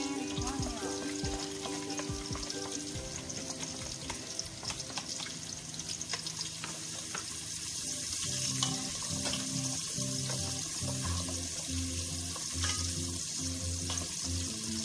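Oil sizzling and crackling in a large aluminium pot as ingredients are fried and stirred with a wooden spoon, with light knocks of the spoon against the pot. Background music with steady low notes plays underneath, stronger in the second half.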